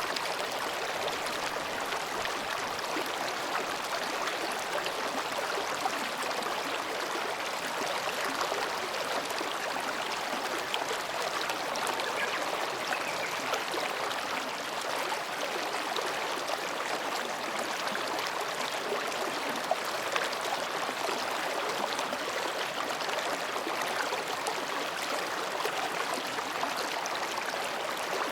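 Mountain stream flowing between rocks: a steady, even babbling of water.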